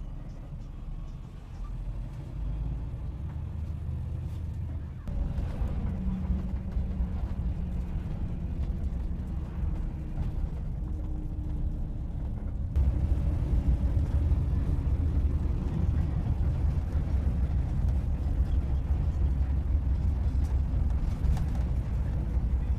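Steady low rumble like a moving vehicle heard from inside, getting louder in abrupt steps about five and thirteen seconds in.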